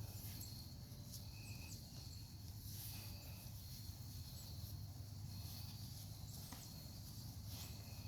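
Quiet outdoor background: a steady high insect drone over a low hum, with a few short high chirps and faint scattered ticks.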